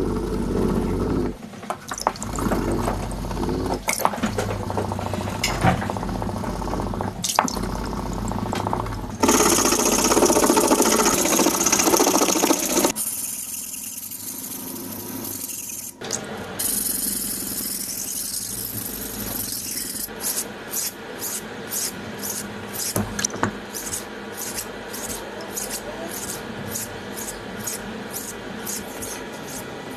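Scraping and grinding sounds of work on a knife blade, with two spells of harsh hissing, then a long run of even back-and-forth strokes about twice a second, like a blade being worked on a sharpening stone or file.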